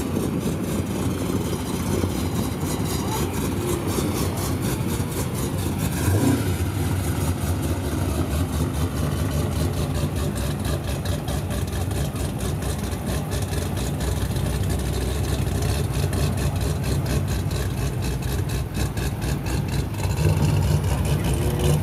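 Camaro engine running at low speed as the car rolls slowly, a steady low rumble that gets louder near the end.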